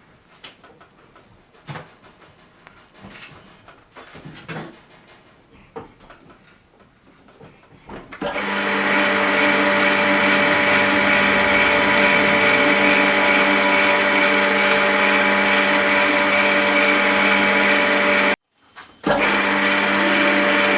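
Scattered light clicks and knocks of handling, then about eight seconds in a loud motor-driven machine starts and runs steadily with an even hum. It breaks off briefly near the end and comes back.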